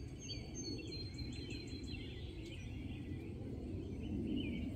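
Outdoor garden ambience: small birds chirping and twittering repeatedly, over a steady low rumble.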